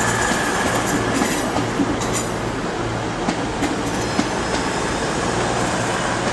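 Class 221 Voyager diesel-electric multiple unit moving along the platform, its underfloor diesel engines humming steadily under wheel-on-rail noise and scattered clicks.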